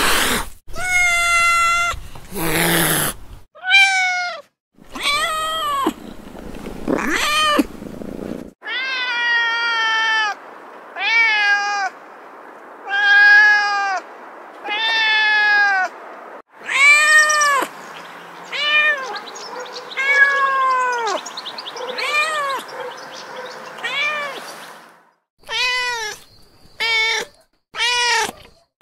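Domestic cats meowing over and over: a long run of separate meows, each rising and then falling in pitch, with a few rougher, noisier calls near the start.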